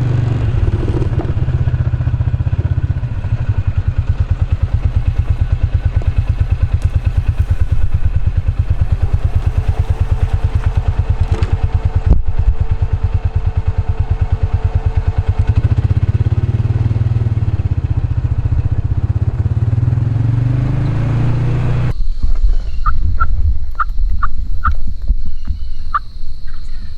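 An engine running steadily with a fast, even low pulse, cutting off abruptly about 22 seconds in. After it come a run of faint ticking clicks and a thin high tone.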